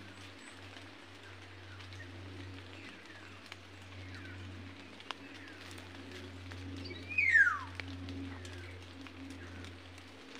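Birds calling in forest: faint short falling chirps scattered throughout, and one loud call about seven seconds in that slides steeply down in pitch.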